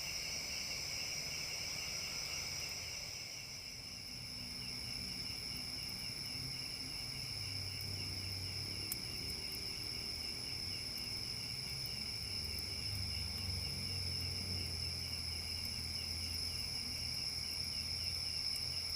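Forest insects chirring steadily in several high pulsing layers, fading briefly a few seconds in before resuming. A faint low rumble joins underneath from about seven seconds in.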